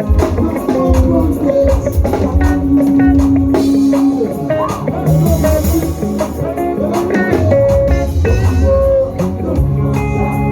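Live gospel praise band playing: electric guitar lines over bass and drum kit, with some singing.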